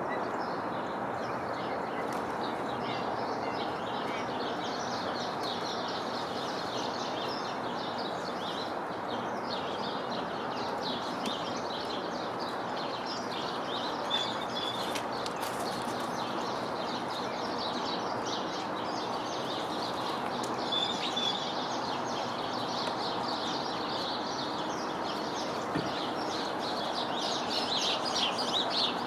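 Many small birds chirping and twittering continuously in quick, high-pitched notes over a steady hiss of background noise.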